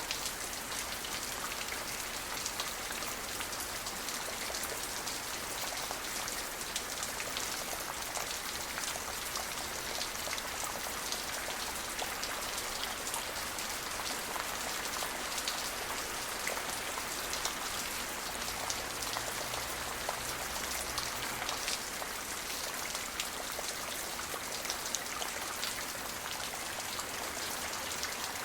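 Steady rain falling, a dense even hiss full of fine individual drop patters.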